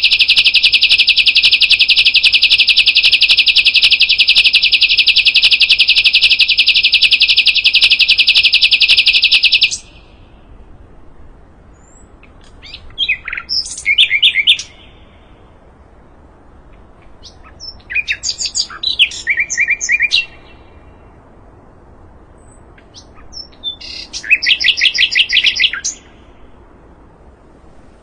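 Sikatan londo songbird singing: a long, fast, buzzy trill that stops about ten seconds in, then three short phrases of rapid repeated notes, each separated by a pause of a few seconds.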